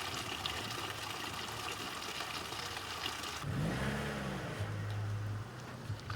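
A motor vehicle's engine running: about halfway through it revs up, then settles into a steady low hum.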